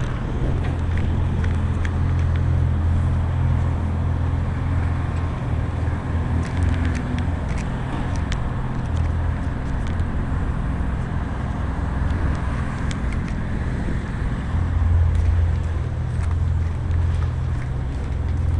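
A shuddering engine running steadily with a deep low hum that eases slightly midway and strengthens again near the end.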